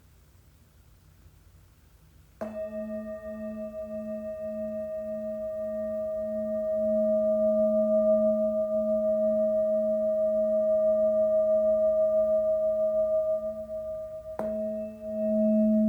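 A crystal singing bowl struck a couple of seconds in, ringing on as a sustained low hum with a pulsing waver and fainter higher overtones. The tone swells louder over the next few seconds and holds, then the bowl is struck again near the end.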